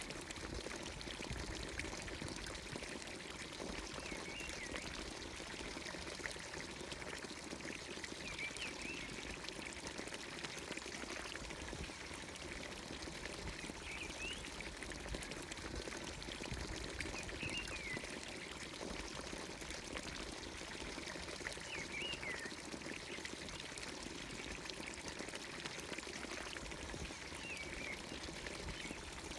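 Water pouring steadily from a village fountain's spout into its watering trough. A bird gives a short chirping call every four or five seconds.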